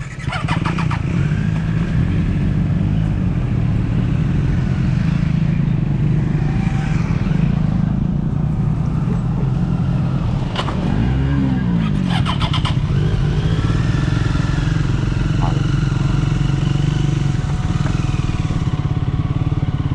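Triumph Speed 400's single-cylinder engine running steadily under load, pulling up a steep gravel climb. A few sharp clicks come through, about half a second in and again around ten to twelve seconds in.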